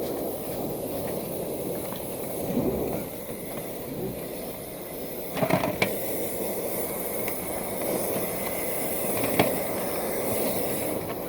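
Dryer vent cleaning equipment running: a steady rushing hiss of air through the duct, with a short louder clatter about halfway through and a sharp knock near the end.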